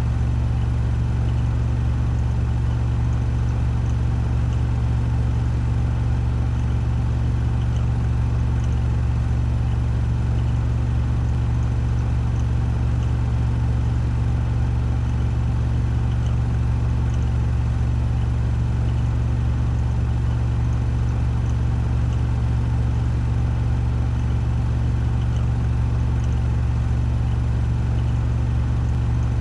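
Washing machine drum spinning at a steady 1400 rpm during the spin cycle: a constant low hum with a whirring haze above it.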